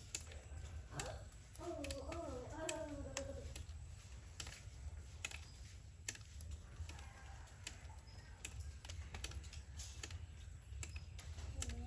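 Scattered, irregular light clicks and taps over a low steady hum, with a brief high-pitched voice about two seconds in.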